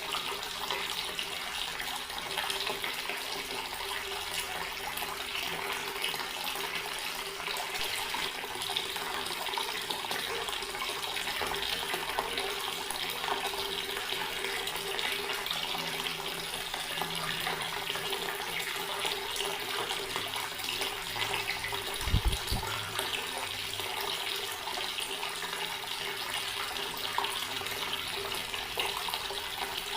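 Water tap running steadily, a continuous splashing stream of water. About two-thirds of the way through there is one brief low thump.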